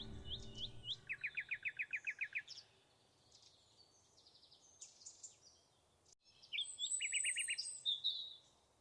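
Wild birdsong: two bursts of a fast trill of about ten quick falling notes each, about a second in and again near seven seconds, among scattered high chirps and rising calls. Soft background music fades out in the first second.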